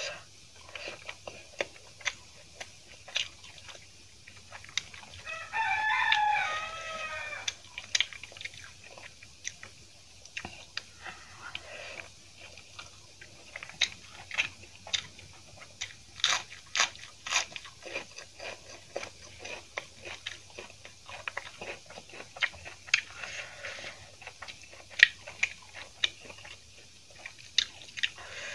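Close-up chewing, biting and lip-smacking of someone eating rice with chilli tomato fish paste by hand, a steady stream of short wet clicks. About five seconds in a rooster crows once in the background, a call lasting about two seconds.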